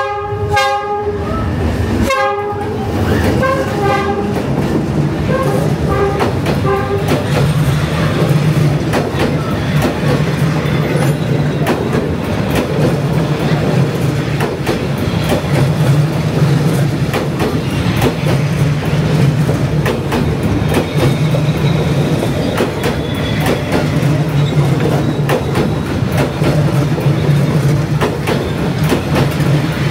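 Diesel-hauled train passing close by: the locomotive horn sounds a string of short blasts over the first seven seconds or so, then the carriages go by with a steady rumble and rhythmic clickety-clack of the wheels.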